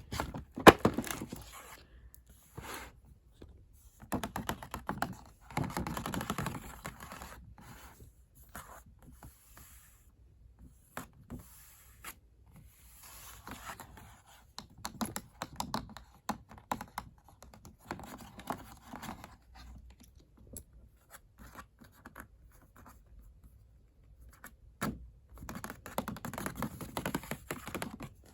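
Packaging being handled and opened: paper and cardboard rustling and scraping in spells, with short clicks and knocks, the loudest a sharp click about a second in.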